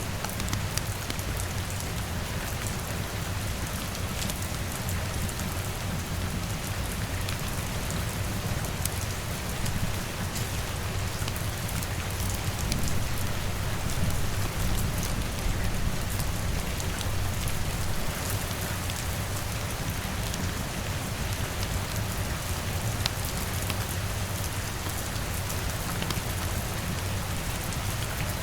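Steady rain on a window, mixed with a crackling wood fire: scattered sharp pops over an even low rumble.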